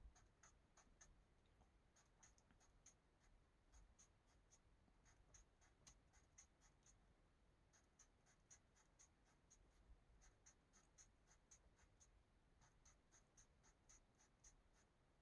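Faint scratching of colouring strokes on paper: quick short strokes, several a second, with brief pauses.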